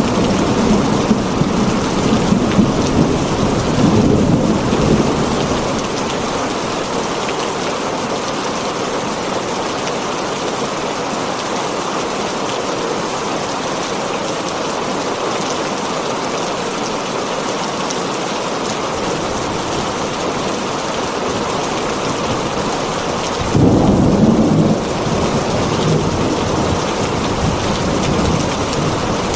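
Heavy rain drumming steadily on a tin roof, with low thunder rumbling in the first few seconds and a louder rumble of thunder breaking in suddenly near the end.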